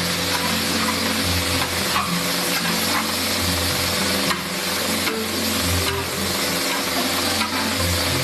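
Chicken and sauce sizzling in a large wok while being stirred for big plate chicken, over a steady low hum.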